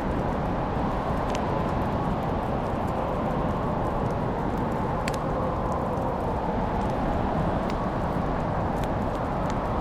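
Wood fire burning in a fireplace: a steady low rush with a few sharp crackles and pops scattered through, the sharpest about halfway.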